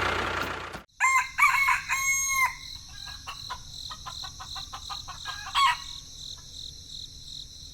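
A rooster crowing about a second in, followed by a run of short clucks from chickens, over a steady high-pitched hum.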